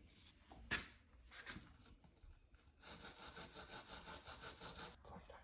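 Faint handling noises of small carburetor parts being fitted back together: a single sharp click a little under a second in, then about two seconds of scratchy rubbing.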